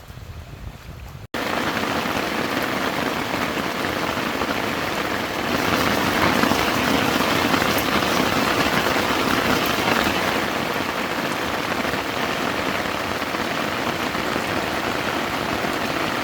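Heavy thunderstorm rain pouring down in a steady hiss. It comes in suddenly after about a second of low wind rumble and grows louder about five seconds in.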